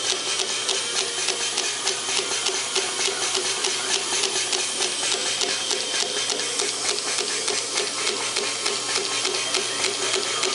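Vintage 1927 Champion air compressor running steadily under its electric motor, its piston pump pumping air with a rapid, even beat of strokes.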